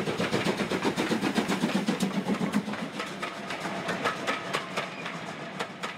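Freight train rolling along the track, its wheels clicking over rail joints above a steady hum, getting fainter toward the end.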